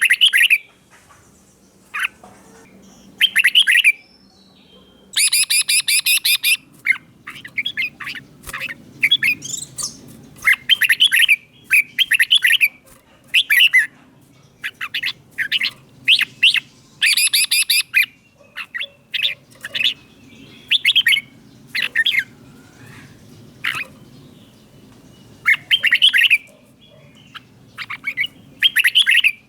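Red-whiskered bulbul singing: short, quick phrases of whistled notes repeated every second or two. Some are harsh, rapid chattering bursts. This is the song that keepers play to excite caged bulbuls or to teach young birds.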